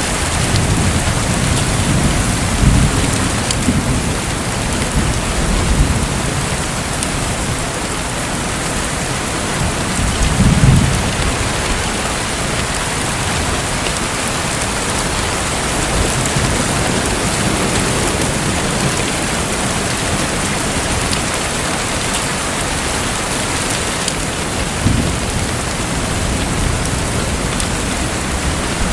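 Steady hiss of water, with a few low rumbling swells, the strongest about ten seconds in.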